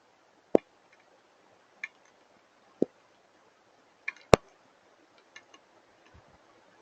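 Scattered hailstones striking hard surfaces: about five sharp, separate knocks a second or so apart, the loudest a little past four seconds in, with fainter ticks of smaller hits between them.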